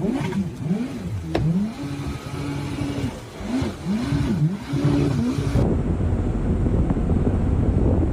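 An engine revving up and down over and over in quick swells. About five and a half seconds in it gives way to a loud, steady rush of wind on the microphone over a low, even engine drone.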